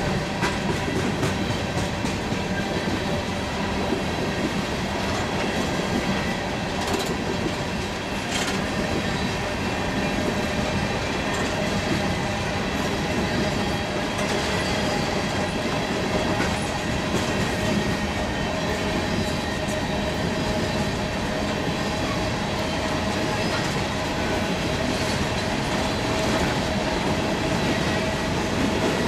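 Loaded freight train of steel coal gondolas rolling past. Its steel wheels clack over the rail joints with a steady rumble, under thin, steady, high squealing tones from the wheels. A couple of sharp clanks come about seven and eight seconds in.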